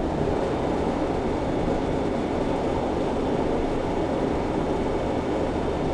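Steady running noise of a refrigeration condensing unit, compressor and condenser fan, while the reach-in's system runs under test. An even rushing hum with no change in level.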